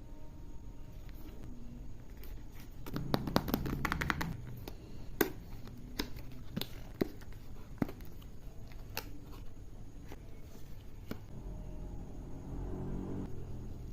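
Handling of a moisturizer jar and its packaging: a quick run of clicks and taps about three seconds in, then single sharp clicks every second or so, and a soft rustle near the end.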